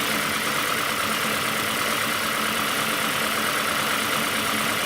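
2008 Ford Escape Hybrid running steadily under the open hood: an even hum and whir with a steady mid-pitched whine.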